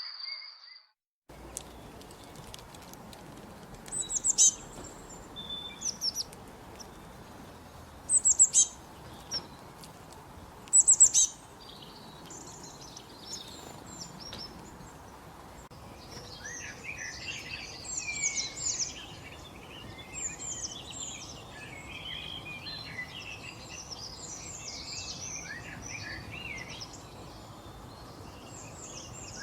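Birds singing: after a moment of silence, a few loud, high chirps spaced a couple of seconds apart, then from about halfway a busy chorus of many birds chirping over one another.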